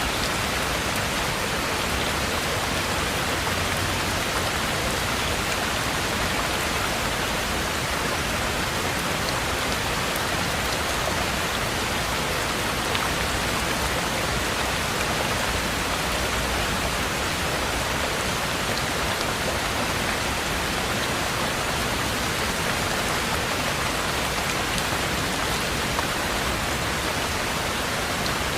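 Heavy rain falling steadily as an even hiss, with faint scattered drop ticks.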